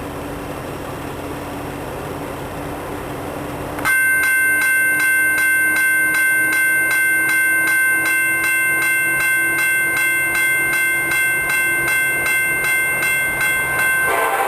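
BNSF SD70ACe diesel locomotive: a low engine rumble, then about four seconds in the air horn sounds a loud, steady multi-note chord for about ten seconds. The horn cuts off near the end, leaving the rushing noise of the passing train.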